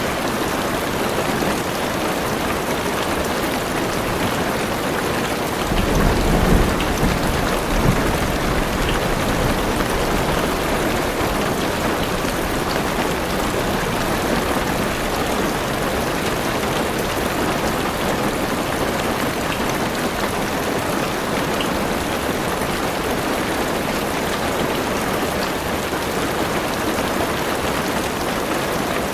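Heavy rain drumming steadily on a car's roof and windows, with a low rumble of thunder about six seconds in that fades after a couple of seconds.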